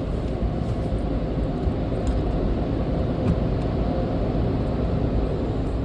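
Steady road and engine noise of a car being driven, heard from inside the cabin, with a faint constant hum.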